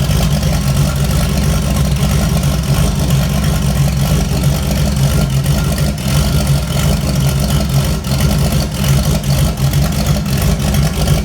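Turbocharged Foxbody Mustang V8 idling cold with a choppy, lumpy idle from its cam, described as chomping away; it runs rough until it warms up.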